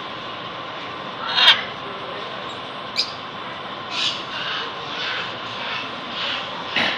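A bird calling: a series of short calls, the loudest about a second and a half in, the rest coming every half second or so in the second half, over steady background noise.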